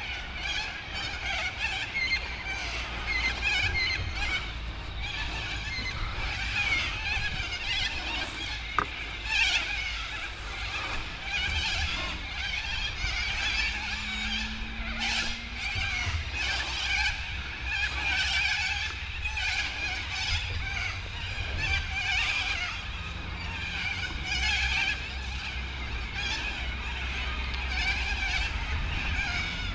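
Insects buzzing and chirping continuously in a dense chorus, with a low rumble of wind on the microphone underneath.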